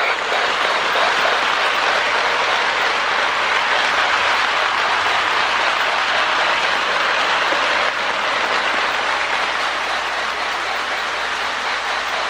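Lionel O-gauge Union Pacific Berkshire model steam locomotive running on its track. The MPC-era sound board gives a steady electronic steam-chuff hiss synchronized to the engine's speed, along with the running noise of the motor and wheels.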